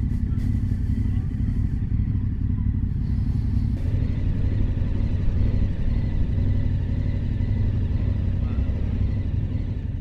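KTM 1290 Super Adventure's V-twin engine running steadily at low speed, a continuous low drone.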